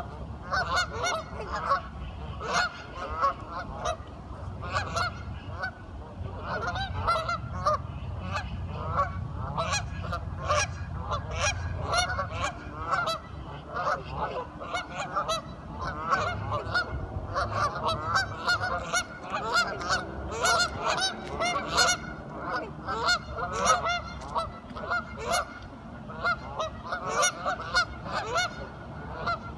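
A flock of ducks calling constantly, many short overlapping quacks with no break, with a low rumble underneath for the first twelve seconds or so.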